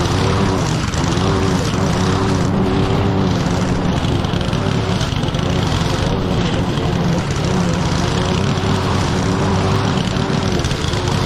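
Petrol lawn mower engine running steadily under load, its pitch wavering slightly as it cuts thick, wet grass.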